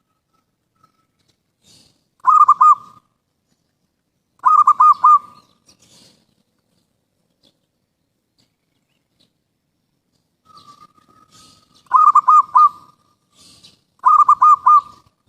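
Zebra dove (perkutut) cooing. There are four short phrases of quick repeated coos, each under a second long, coming in two pairs about two seconds apart. A softer long drawn-out coo leads into the second pair.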